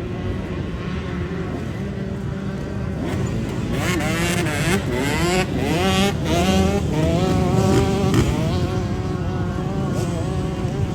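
A pack of dirt bike engines revving and accelerating together, several pitches rising and falling over one another, getting louder about four seconds in.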